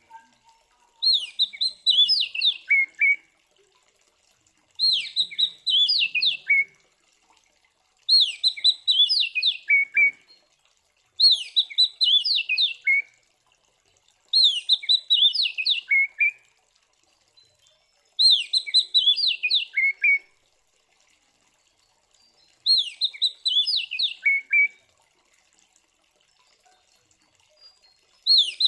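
Oriental magpie-robin (kacer) singing a loud, agitated fighting song. One short phrase is repeated every three to four seconds: a quick run of high notes that falls to a lower note at the end, with silence between the phrases.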